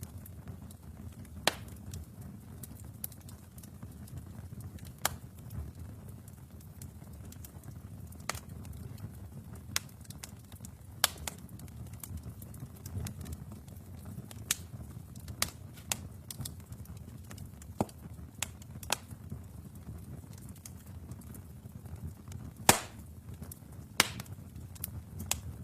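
Wood fire burning in a fireplace: a steady low rumble of the flames with irregular sharp crackles and pops from the logs, one or two a second, the loudest near the end.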